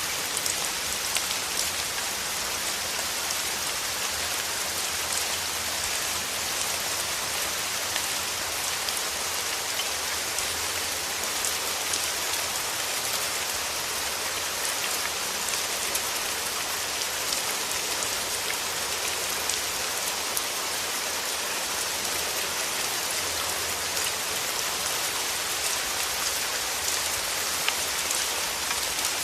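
Steady rain falling through forest trees, a continuous hiss of drops with many small individual drop ticks.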